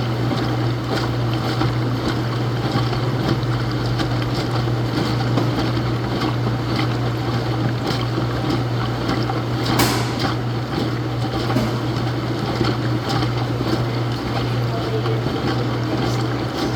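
Laundromat washing machine running through its wash: a steady low hum with a rushing, churning noise over it. A single sharp click about ten seconds in.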